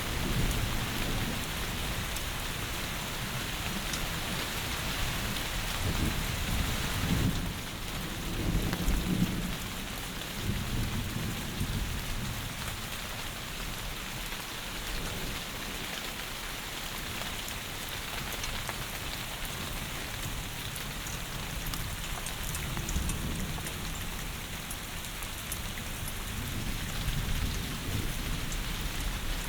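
Heavy rain falling steadily, with low rumbles of thunder that swell and fade a few times: near the start, around a quarter of the way in, and again near the end.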